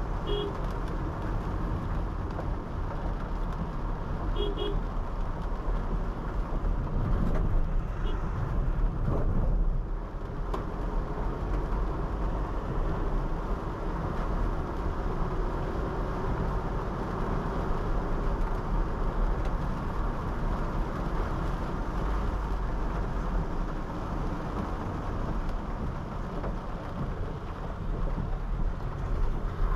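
Steady road and engine noise of a Honda City 5th Gen sedan driving. A car horn gives short double toots twice in the first five seconds, with a fainter beep about eight seconds in.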